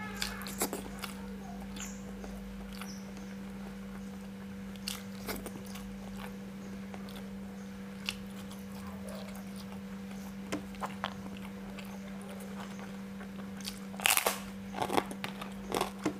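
Close-miked eating: chewing with scattered crunchy bites into raw vegetables such as a raw carrot stick, and a cluster of louder crunches near the end. A steady low hum runs underneath.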